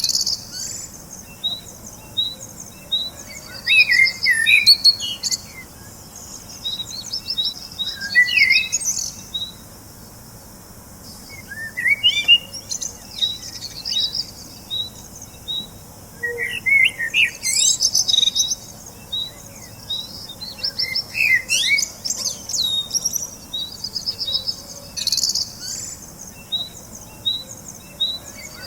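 Birds chirping and singing: a steady run of short high notes about two a second, with quick chirping phrases and high trills breaking in every few seconds.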